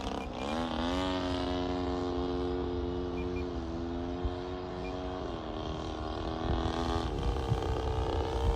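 Seagull Models Shock Cub RC plane's motor and propeller running in flight. The pitch dips and rises again at the start as the plane passes, then holds steady and steps down a little three times as the throttle is eased. Low wind rumble on the microphone underneath.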